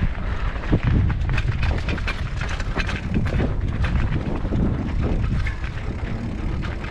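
Mountain bike rolling over a rough dirt trail: the bike rattles and the tyres crunch, with many sharp clicks over a steady low rumble.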